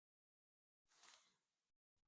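Near silence, with only a faint brief hiss about a second in.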